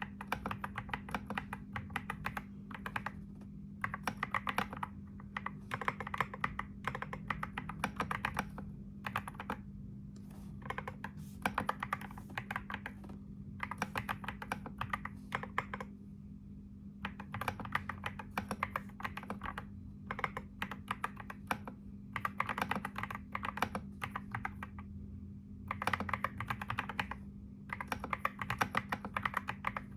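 Typing on a computer keyboard: quick runs of keystroke clicks lasting a few seconds each, broken by short pauses, over a steady low hum.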